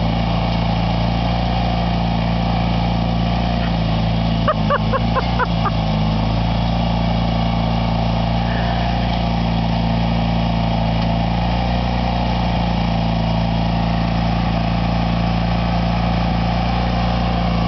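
A small engine running steadily at an even pitch. A few short high squeaks come about four to five seconds in.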